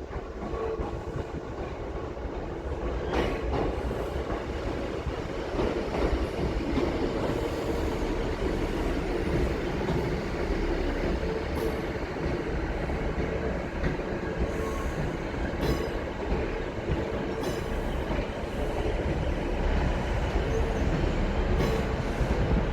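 A train rolling past on the track: a steady rumble of wheels on rail, with a faint steady squealing tone and a few sharp clicks spread through the passage.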